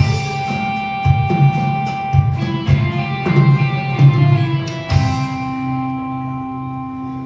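Live rock band with electric guitar and drum kit playing, hitting a chord about five seconds in that is held and left to ring, slowly fading: the close of the song.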